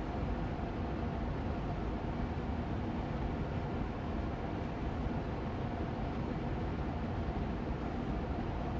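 Austin Air Allergy Machine air purifier fan running steadily on medium speed: an even, gentle hum of rushing air with a faint steady low tone in it.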